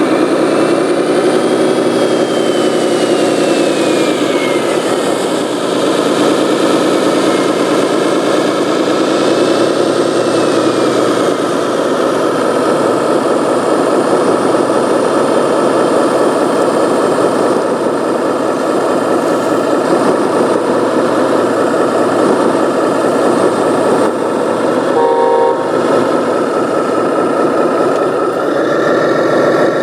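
Engine noise from RC model trucks and construction machines, rising and falling in pitch as they rev, with a short horn toot about 25 seconds in.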